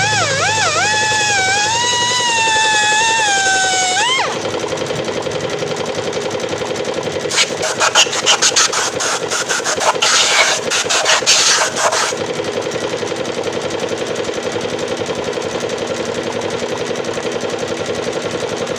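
Pneumatic air grinder whining at high speed, its pitch wavering up and down, then dropping away about four seconds in to a steady running noise with a fast even pulse. In the middle come about five seconds of harsh, choppy noise, typical of the tool working on material.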